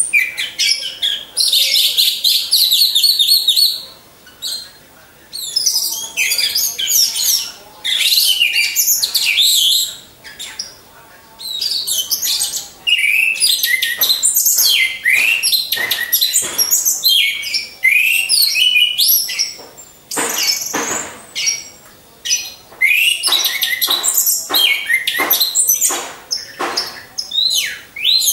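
Orange-headed thrush singing loud, varied phrases of quick sliding notes and trills, each a few seconds long, with short pauses between them.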